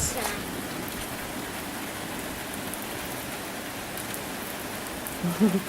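Steady rain falling and pattering, an even hiss of drops. A short voice sound breaks in near the end.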